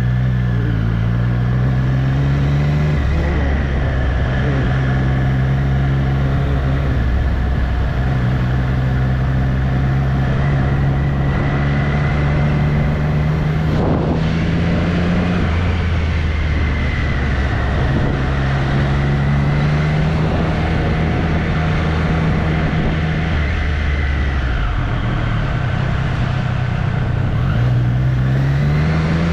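2024 Triumph Street Triple's three-cylinder engine running under way, its pitch holding steady for a few seconds at a time and then rising or dropping with throttle and gear changes, with a climb near the end.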